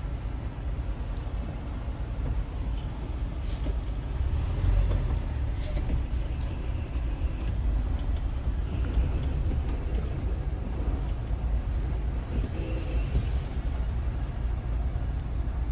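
Semi-truck's diesel engine running with a steady low rumble, with a few short hisses of air about three and a half, six and thirteen seconds in.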